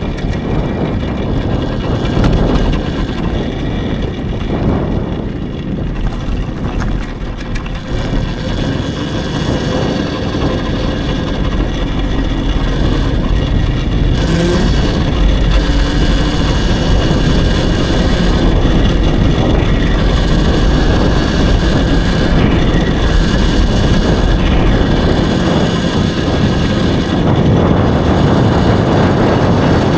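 Steady wind rush and rumble on the microphone while riding an electric dirt bike, growing a little louder about ten seconds in.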